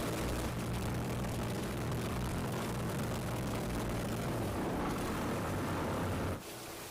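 Engine of a motorized outrigger fishing boat (bangka) running steadily at a constant speed. It cuts off suddenly near the end, leaving a quieter hiss.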